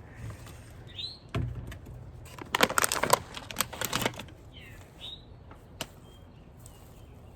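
A quick run of sharp clicks and rustling from bird-food packages being handled, loudest in the middle. There are also two short downward-sliding bird chirps, one about a second in and one about five seconds in.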